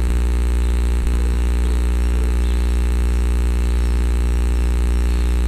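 A loud, steady low hum made of many evenly spaced tones, unchanging in level, as from a running machine or an electrical hum on the recording.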